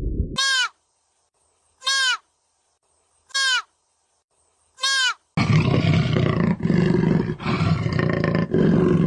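Animal calls: four short, clear calls that rise and fall in pitch, about a second and a half apart, then from about five seconds in a loud, rough, roaring call.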